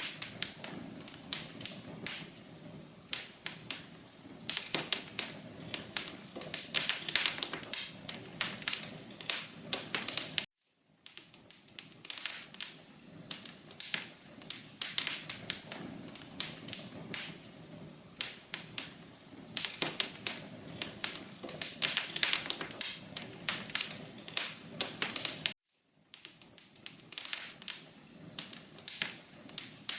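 Wood fire crackling in a fireplace: dense, irregular pops and snaps over a low rumble, dropping out to silence for a moment twice, about fifteen seconds apart.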